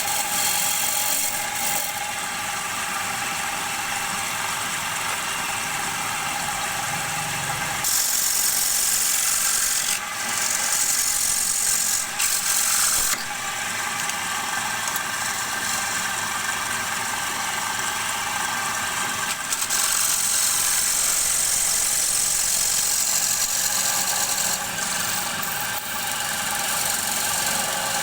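Wood lathe running with a steady motor hum, while a turning tool cuts into the spinning bowl blank in stretches of high, hissing scraping, several times.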